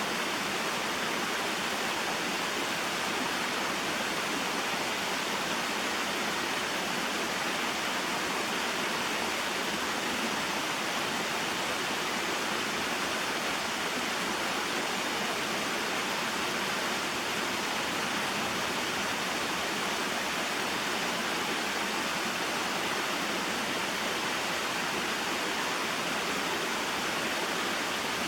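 A small mountain waterfall and stream rushing steadily, an even, unbroken sound of falling water.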